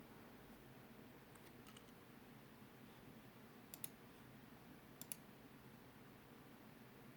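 Faint clicks from a Wing Sung 3008 fountain pen being written with: a few light ticks about a second and a half in, then two sharp double clicks, one near four seconds in and one about a second later.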